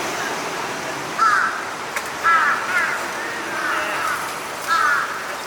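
Crows cawing, about five or six harsh caws at irregular intervals, over a steady background noise.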